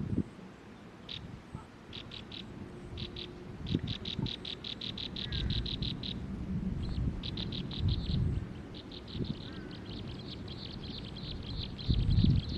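A small bird chirping in fast runs of high, short notes, about ten a second, in two long series, over low rumbling and bumping.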